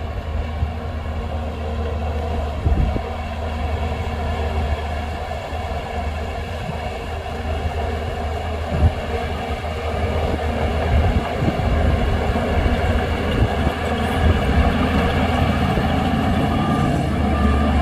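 Shantui DH17C2 bulldozer's diesel engine running steadily, with a deep hum and occasional knocks, growing a little louder near the end.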